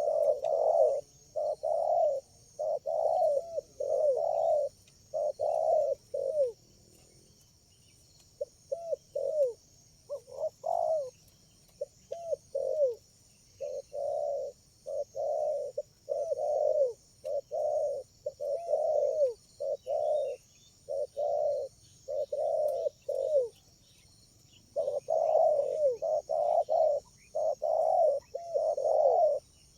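Spotted doves cooing: runs of low, rounded coo notes at about two a second, pausing briefly twice. A steady high-pitched buzz runs underneath.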